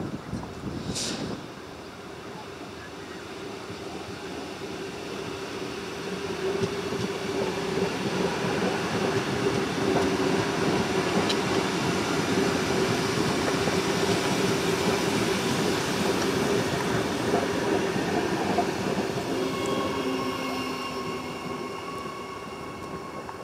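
Adelaide Metro 4000-series Bombardier electric railcar passing: the rumble of wheels and running gear builds over several seconds, holds, then eases off, with a steady whine running through it. Near the end, higher steady tones come in as a train draws along the platform.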